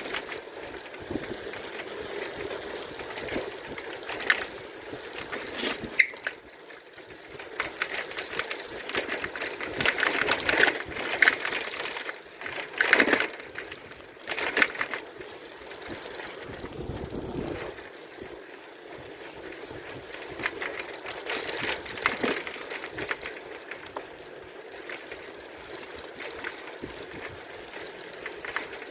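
Bicycle being ridden: steady rolling noise with frequent rattles and clicks, and a louder patch of knocks about halfway through.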